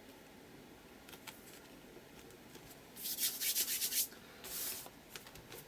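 Hand rubbing a glued paper cutout flat onto a paper journal page: quiet at first, then about a second of dry scratchy rubbing a little past halfway, followed by a shorter rub.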